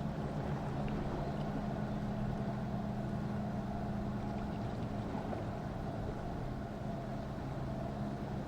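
Motorboat engine running steadily, a low even hum with no change in pitch.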